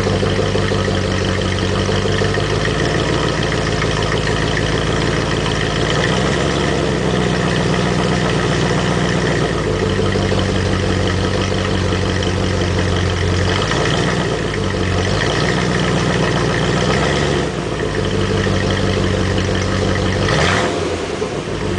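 A 1971 Triumph Stag's original 3.0-litre V8 running, heard through its exhaust. The engine speed shifts up and down several times, with a brief quick change near the end.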